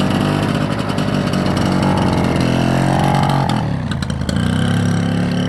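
BSA Bantam's 125cc two-stroke single-cylinder engine running just after being kick-started. It is revved up a couple of seconds in, drops back about four seconds in, then runs steadily again.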